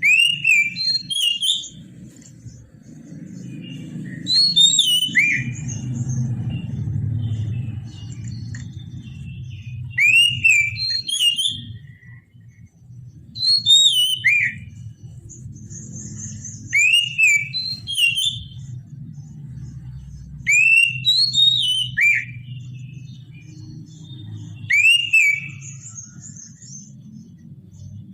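Oriental magpie-robin (kacer) singing: short whistled phrases of swooping notes, repeated about every three to four seconds, over a steady low hum.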